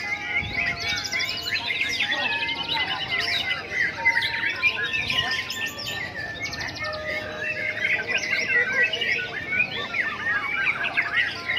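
Many white-rumped shamas (murai batu) singing at once: a dense chorus of overlapping whistles, chirps and rapid trills, with no pause.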